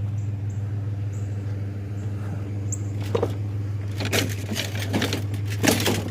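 Truck engine idling with a steady low hum. From about three seconds in, a series of sharp clattering knocks and rattles.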